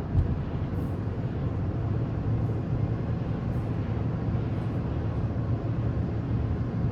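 Steady low road and engine rumble of a moving car, heard inside the cabin, with one short thump just after the start.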